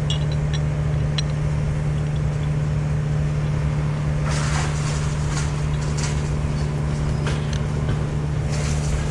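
National 1500 series crane truck's engine running steadily at a constant speed, with a brief noisy rush about four seconds in and again near the end.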